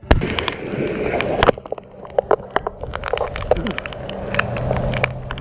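Road traffic noise with engines running, broken by many short knocks and clicks. A loud sharp bang comes just after the start and another about a second and a half in.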